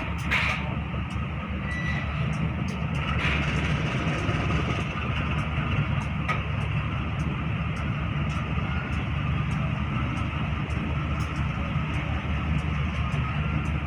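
Passenger train coaches rolling slowly past, a steady low rumble with scattered light clicks.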